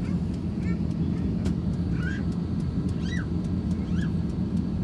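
Steady low rumble of an Airbus A350-1000 taxiing, with a few faint, brief voice-like chirps over it.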